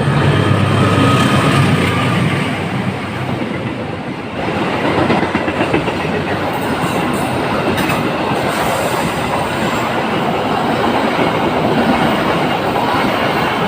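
A train passing close by on the rails. A steady hum at first, then about four seconds in a sudden, dense rush of wheels on track that carries on, with clickety-clack over the rail joints.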